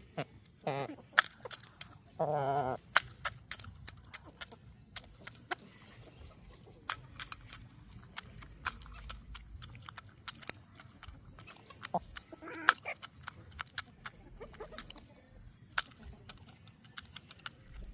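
Backyard chickens clucking, with a few short wavering calls, the loudest about two and a half seconds in and another near the end of the first third. Many short sharp clicks are scattered throughout.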